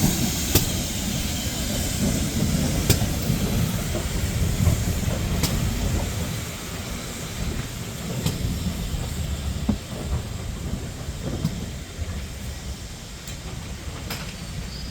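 Train rolling along the track with a steady low rumble and occasional sharp clicks of wheels over rail joints, gradually fading away.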